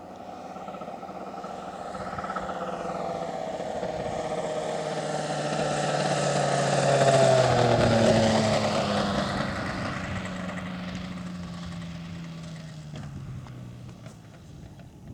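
Large-scale radio-controlled P-51D Mustang model with a geared two-cylinder inline two-stroke MVVS engine and four-blade propeller making a pass. The engine drone grows louder, peaks about seven to eight seconds in, then drops in pitch and fades as the plane goes by.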